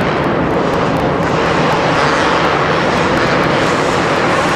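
Two-stroke supercross bikes running on the track: a loud, dense, steady engine noise with no let-up.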